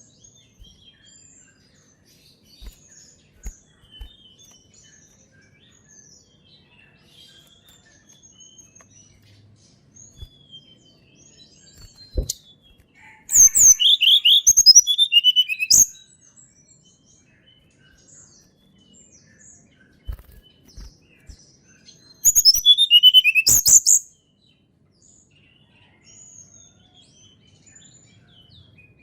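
Tledekan gunung songbird singing two loud bursts of song, each about two and a half seconds long, of quick high whistled notes that sweep downward. Between the bursts are only faint scattered high chirps.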